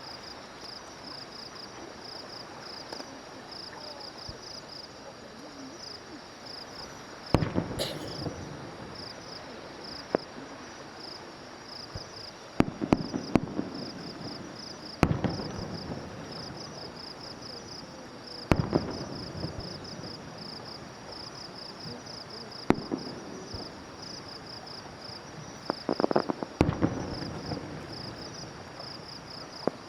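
Fireworks shells bursting in the sky: about six separate booms, each trailing off in an echo, two of them followed by bursts of quick crackling. Under them, insects keep up a steady, rapid high-pitched chirping.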